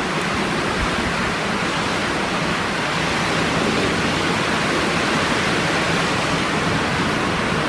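Strong blizzard wind blowing, a steady even rush of noise.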